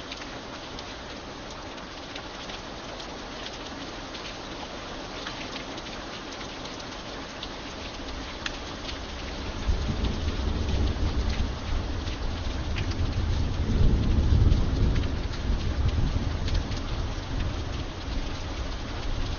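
Steady rain with scattered drops ticking, and a low rumble of thunder that builds about halfway through, peaks, then slowly eases off.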